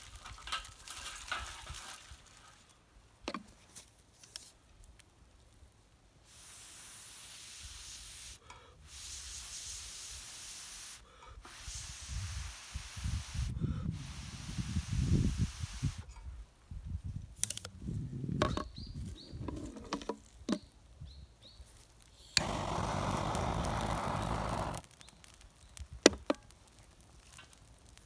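Several bursts of steady hissing, each two to three seconds long, that start and stop sharply, with a louder burst near the end and knocks and handling sounds between them.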